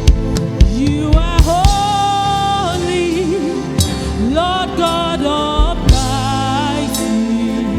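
Gospel worship music: a singer slides into and holds long notes with vibrato over a band's steady bass and chords, with a few sharp drum hits.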